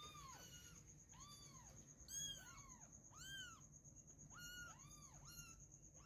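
Kitten meowing over and over, about once a second, in short high cries that rise and fall in pitch, begging to nurse. A faint steady high-pitched tone runs underneath.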